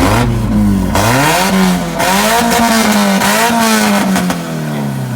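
A car engine accelerating hard, climbing in pitch with two short breaks like gear changes about one and two seconds in. It holds a high pitch, then falls away steadily near the end.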